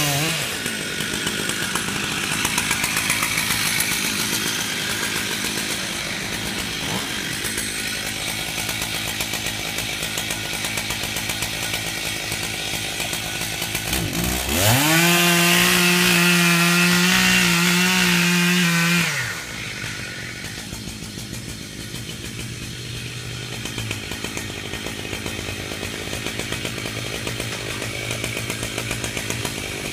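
Two-stroke chainsaw running at low speed, revved up sharply to full throttle about halfway through, held there for about five seconds, then let back down to a lower, steadier run.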